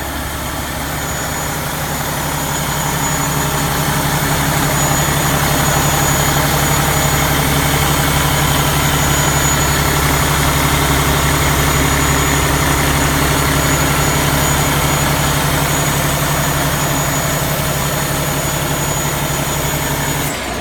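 Cummins ISX inline-six diesel in a Kenworth T680 tractor idling steadily. It grows a little louder over the first few seconds, then holds even.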